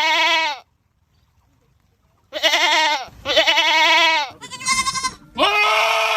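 Goats screaming: loud, drawn-out bleats with a wavering pitch. One call ends just after the start, and after a pause of about a second and a half four more follow close together, the fourth higher than the two before it and the last held long.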